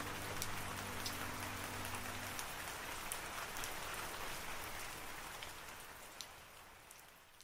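Steady rain falling, with separate drops ticking now and then, fading out over the last few seconds. Low held notes of background music sound under it and end about two and a half seconds in.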